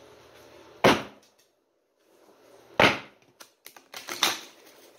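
A deck of oracle cards handled by hand while being shuffled: three sharp slaps of the cards, about a second in, near three seconds and just past four seconds, with lighter card clicks between.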